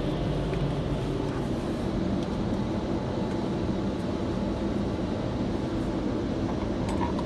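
WashTec FlexStream car-wash blower dryers running, a steady rush of air heard from inside the car.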